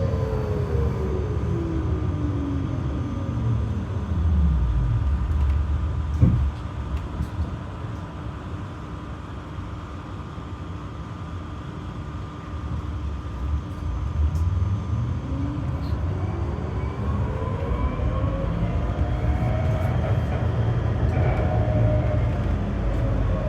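A GTZO-type GT tram slowing down, its electric traction motors whining with a pitch that falls away, and a single knock as it comes to a halt about six seconds in. It stands with a low hum for several seconds, then pulls away with the motor whine rising in pitch over the rumble of the running gear.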